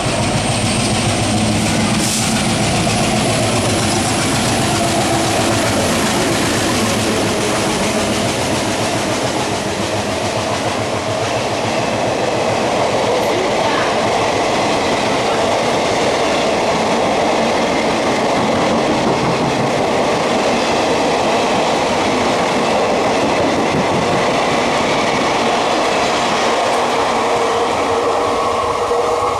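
Diesel-hauled Indian Railways passenger train running past at speed, its coaches going by in a loud, steady rush of wheel and rail noise, with a sharp click about two seconds in.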